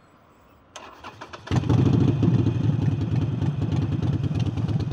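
Harley-Davidson Forty-Eight's air-cooled V-twin with an aftermarket air intake being started: the starter cranks briefly, then about a second and a half in the engine catches and runs loud with a fast, even pulsing beat.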